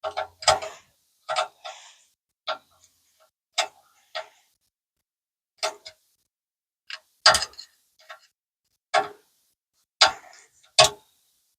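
A series of about a dozen irregular, sharp clicks and knocks, some in quick pairs, from hand tools and metal parts being handled.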